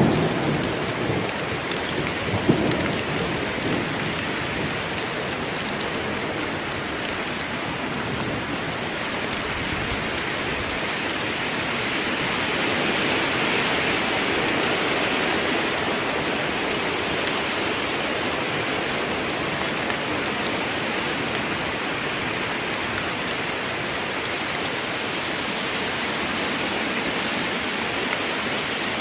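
Steady heavy rain falling in a forest, an even hiss of drops that swells a little midway. A low thunder rumble dies away in the first few seconds.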